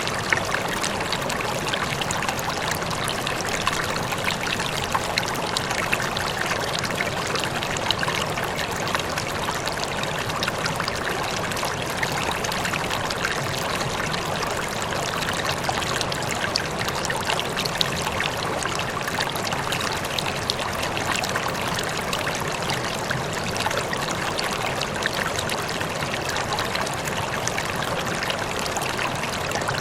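Running water flowing steadily, with a constant rush and small splashes flecked through it.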